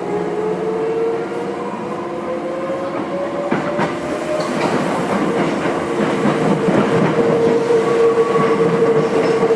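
Nose Electric Railway 5100 series (ex-Hankyu 5100) electric train running, its traction motor whine rising steadily in pitch as it accelerates for the first few seconds, then holding at a steady pitch. Wheels rumble and clatter over the rails underneath.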